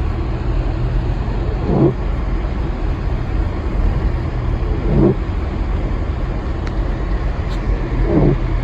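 Car cabin noise while driving: a steady low engine and road rumble. A short falling sweep repeats about every three seconds.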